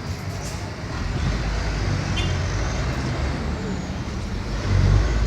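Vehicle engine running, a steady low rumble that gets louder about five seconds in.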